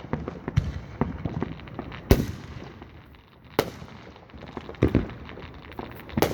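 Distant fireworks going off: aerial shells booming, the loudest about two seconds in and again a second and a half later, with smaller pops and crackles between.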